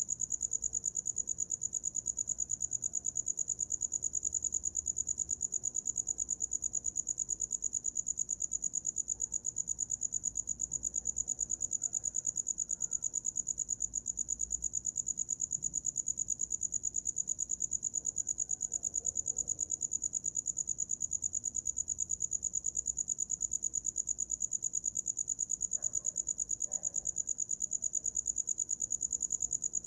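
A cricket singing: a high, steady trill of rapid, even pulses that runs on without a break.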